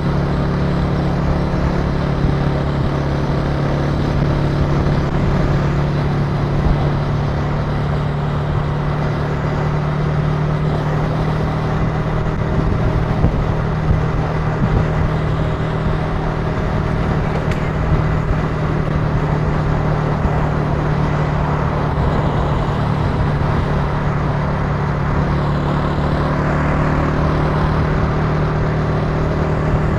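Italika TC300 motorcycle engine running at a steady cruise, its note holding fairly even, with road and wind noise beneath it.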